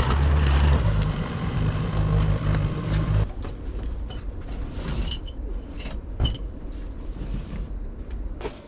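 A low, steady motor drone that cuts off abruptly about three seconds in, followed by scattered knocks and light clinks of loose items being handled.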